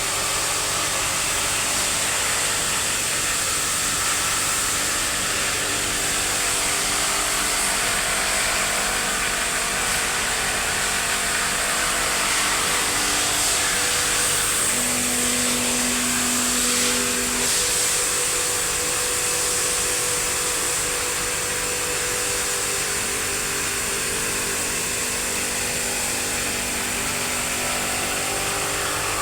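Steady, loud machine noise with a strong hiss and a faint hum beneath it, from compressor oil-cooler cleaning work. A brief extra steady tone joins about halfway through.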